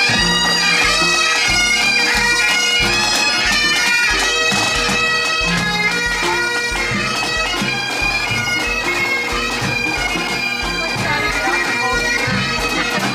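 Bagpipes playing a tune over a steady drone, with drum beats underneath, as from a marching pipe band.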